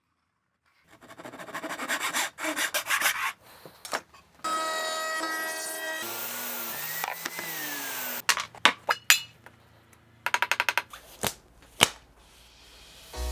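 A run of short woodworking sounds: a series of scraping strokes on wood, then a few seconds of a steady machine whine, ending in clusters of quick clicks and a couple of sharp knocks.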